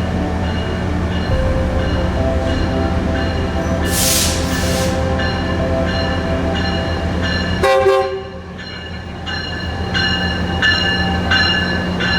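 A train horn sounding over steady train running noise, with a brief loud clatter about eight seconds in, after which it is somewhat quieter.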